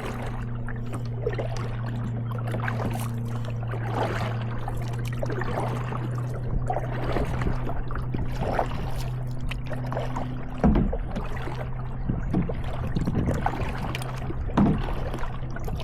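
Kayak paddle strokes splashing and dripping about every two seconds, with a couple of sharper knocks, the loudest about eleven seconds in, over a steady low hum.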